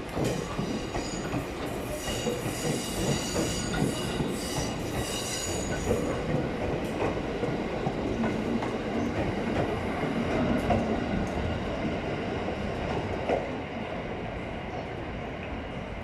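205 series electric train running on the rails. A high squeal from the wheels or brakes sounds over its rumble and clicking in the first few seconds, and the sound eases off slightly near the end.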